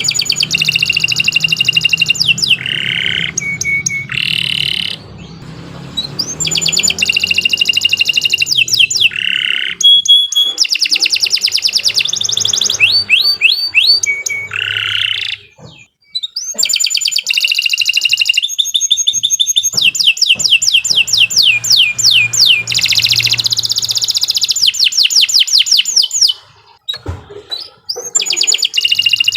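Domestic canary singing a long song of fast trills and rapidly repeated notes, broken by brief pauses a few times.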